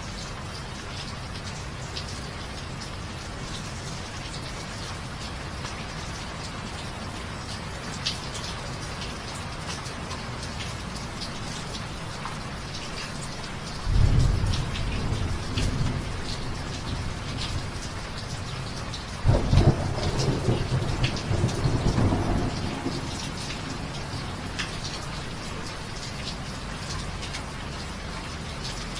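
Steady rain falling, with scattered drops ticking close by. Thunder rumbles twice: a short roll about halfway through, then a louder, longer one a few seconds later that fades out over about three seconds.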